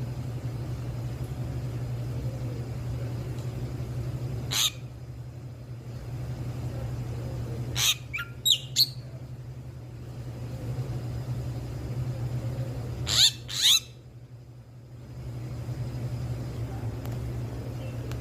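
Bali starling (Bali myna) giving short, loud calls: one about four and a half seconds in, three in quick succession around eight seconds, and a pair around thirteen seconds. A steady low hum runs underneath.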